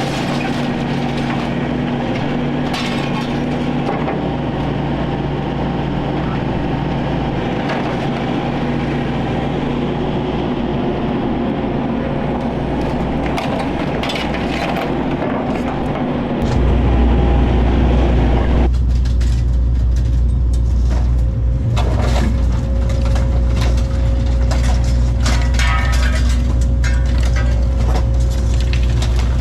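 Excavator diesel engine running steadily while the machine tears into a trailer, with cracks and crunches of breaking material. About halfway through the engine's low drone gets louder and the crackling thins out.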